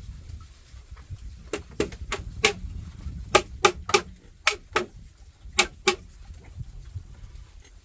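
A series of about eleven sharp knocks, struck in quick pairs and threes over a few seconds, like a tool striking during building work.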